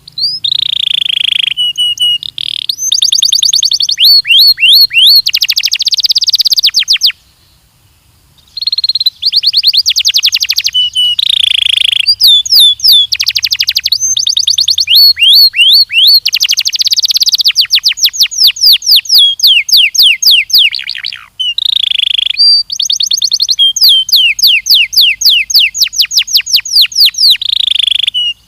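Belgian canary singing: long rolling trills of rapid, repeated high notes, phrase after phrase, with a brief pause about seven seconds in.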